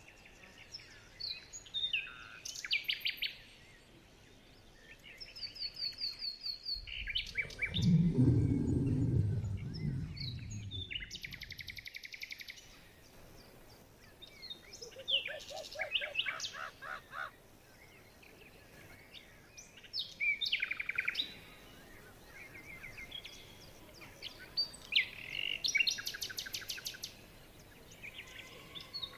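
Small birds chirping in repeated short, rapid series of notes, with a louder low rumbling noise for a few seconds about a quarter of the way in.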